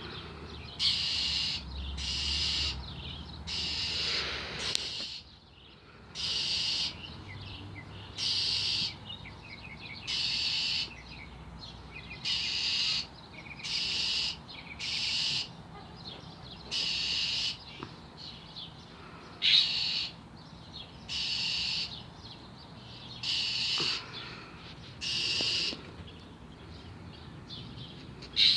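A bird's harsh scolding calls, each under a second long, repeated about every two seconds: alarm calls at a cat.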